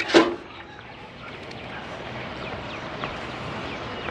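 Outdoor early-morning ambience: a steady hiss with faint, scattered bird chirps, after a short clatter right at the start.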